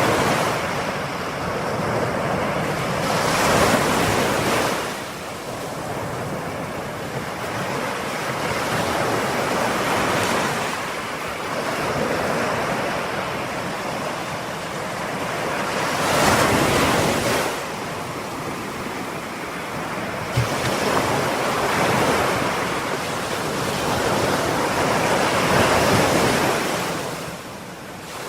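Ocean surf: waves break and wash up in turn, swelling and fading every few seconds, with the loudest breaks about four seconds in, around sixteen seconds and near the end.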